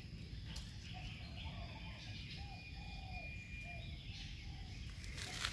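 Short, repeated chirping calls, bird-like, over a low background rumble, with a few sharp clicks near the end.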